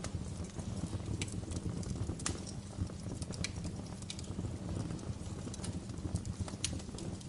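Wood fire burning in a fireplace: a steady low rumble with irregular sharp crackles and pops, a few each second.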